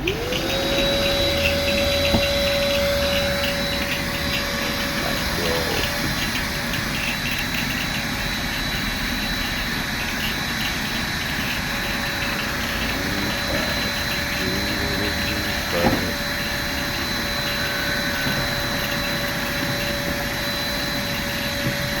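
Vacuum cleaner motor starting up, its whine rising quickly to a steady pitch and then running evenly. There are a few light knocks, one sharper about sixteen seconds in.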